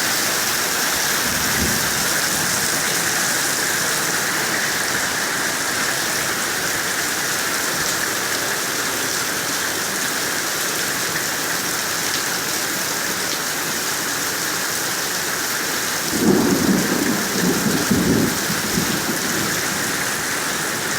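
Heavy rain pouring down steadily. About sixteen seconds in, a low rumble rises over it for two or three seconds.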